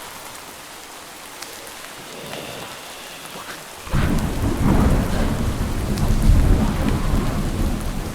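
Steady rain with scattered drips, then about halfway through a sudden loud clap of thunder that rolls on as a deep rumble.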